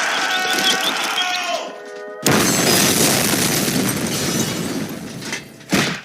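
Cartoon explosion sound effect. A held, slightly wavering pitched tone lasts under two seconds, then a sudden loud blast of noise starts and fades over about three seconds.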